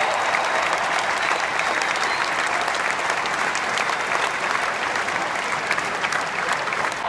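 Large stadium crowd applauding, a steady dense wash of many people clapping.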